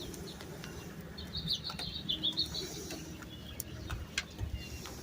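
A bird calling outside, a wavering run of high chirping notes about a second in, with scattered light clicks of handling and a low hum underneath.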